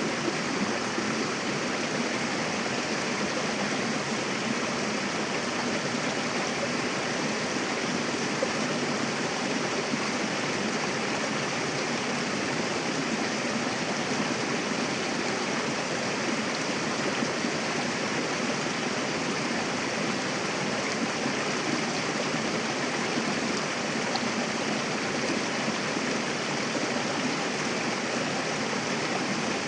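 Mountain river rushing steadily over rocks, a dense, even water noise with no change in level.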